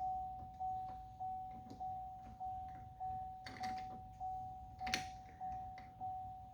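Vehicle warning chime dinging steadily, about one ding every 0.6 seconds, each ding fading quickly. Two sharp clicks come about halfway through.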